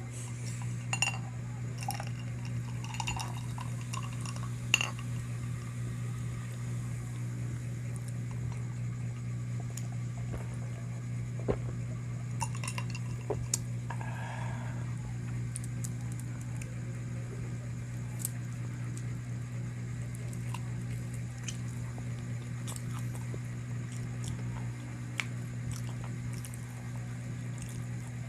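Cutlery and dishes clinking now and then during a meal, a handful of short sharp clicks, most of them in the first half, over a steady low hum.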